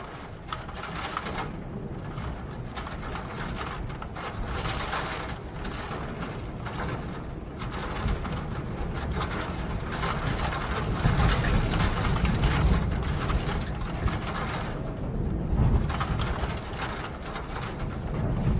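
Rain falling as a dense patter of fine ticks, with a low rumble that grows louder after about ten seconds.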